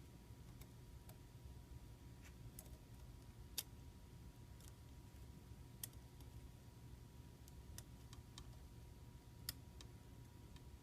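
Near silence with a few faint, sharp clicks spread out, the loudest about three and a half, six and nine and a half seconds in: small handwork on an opened iPhone 5c, working at an antenna connector held down by glue.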